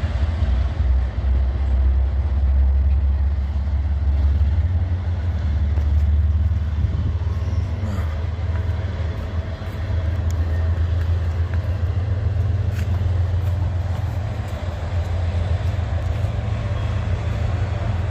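Freight train of autorack cars rolling past: a steady low rumble with a few faint clicks.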